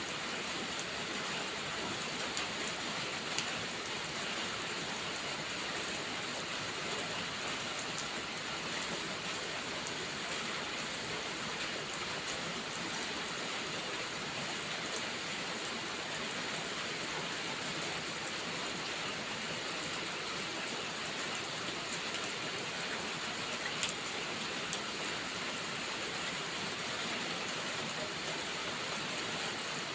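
Steady rainfall, an even hiss with fine scattered drop ticks and a couple of slightly louder clicks.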